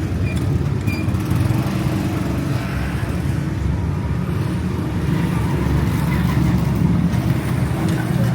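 Motor vehicle engine running steadily with a low, even rumble.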